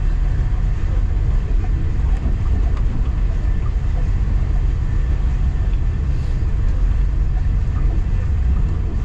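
Local passenger train running, heard from aboard: a steady low rumble of wheels and carriage with a few faint ticks.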